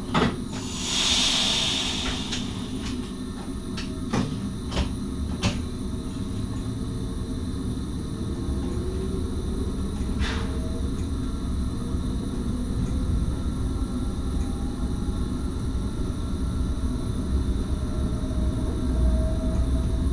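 Cab of an NS SGMM Sprinter electric train as it sets off: a short hiss of air about a second in and several sharp clicks, then the low rumble of the train running, growing a little louder near the end.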